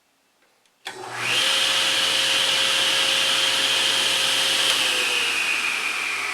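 An electric motor tool switches on with a click about a second in and runs steadily with a loud, airy high whine. The whine sinks slightly in pitch in the last second or so.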